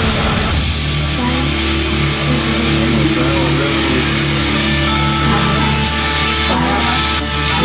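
Live heavy rock band playing an instrumental passage: distorted electric guitars over held low bass notes, loud and dense.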